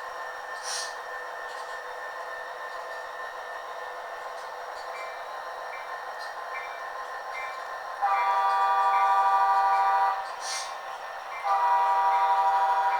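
Sound decoder in a model SD40-2F diesel locomotive playing a steady diesel engine sound, thin with no bass, then two long blasts of the locomotive's horn, the first about 8 seconds in and the second starting near the end.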